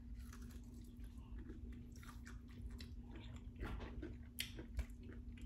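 A person biting into and chewing a crispy breaded deep-fried pickle, with close mouth sounds and short scattered crunches.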